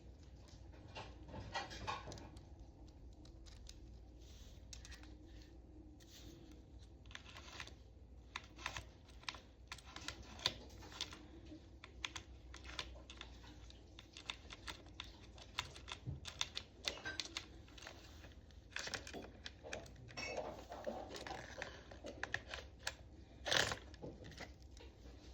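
Irregular small clicks and taps of things being handled, with a louder knock near the end, over a faint steady hum.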